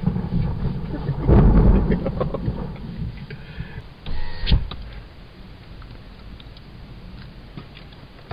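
Thunder rumbling in a thunderstorm, loudest about a second and a half in, with a sharp crack near the middle, then dying away.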